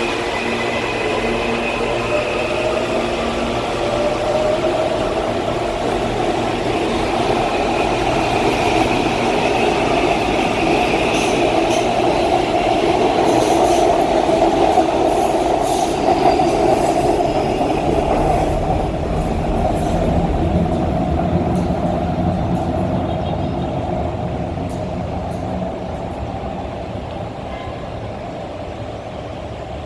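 Electric suburban train running along the platform: a motor whine rising in pitch as it gathers speed over steady running rumble and rail clicks, loudest about halfway through, then slowly fading as it moves away.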